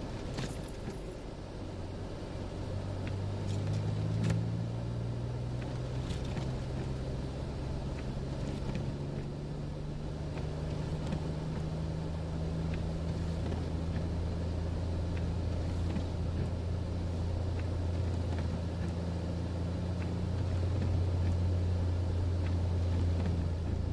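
Jeep Wrangler JK engine running steadily as a low drone while driving, with a few faint clicks.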